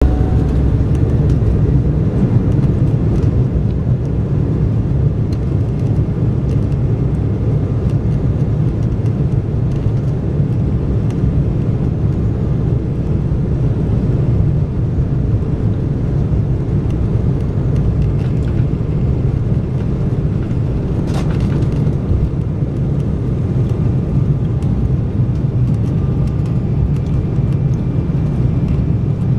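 Steady low rumble of an Embraer 190 airliner's turbofan engines and airframe, heard inside the passenger cabin. There is a faint click about two-thirds of the way through.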